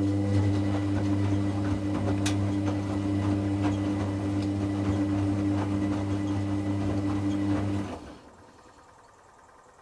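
Washing machine drum motor humming steadily as it turns the drum through a rinse, with water and laundry sloshing and clicking inside. It cuts off suddenly about eight seconds in, the pause before the drum reverses.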